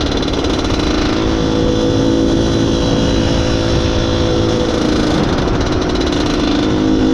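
Izh Planeta Sport motorcycle's single-cylinder two-stroke engine running under way at fairly steady revs, loud.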